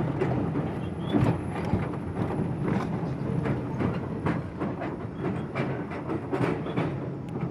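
R42 subway train running along the track: a steady low rumble of wheels on rail with frequent irregular clicks as the wheels cross rail joints.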